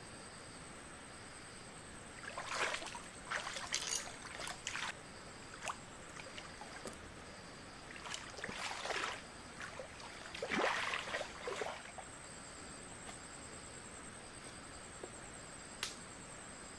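Night insects keep up a steady high-pitched trill with a pulsing chirp beneath it. Three clusters of noisy splashing bursts break in over the first twelve seconds, followed by a single sharp click near the end.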